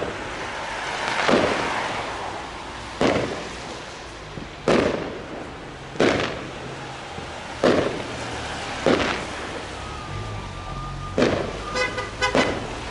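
Fireworks display: aerial shells bursting with sharp bangs every second or two over a crackling hiss, about eight in all, with a quick run of several bangs near the end.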